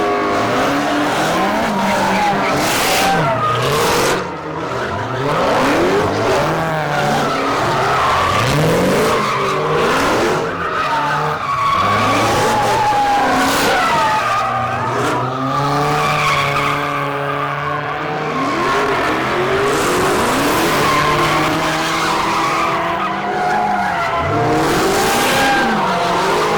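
A car doing donuts: its engine revs up and down again and again while the rear tires squeal and skid for the whole stretch.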